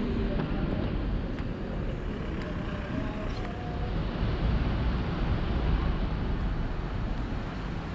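Steady low rumble and hiss of an electric regional train, with a faint brief whine about three seconds in.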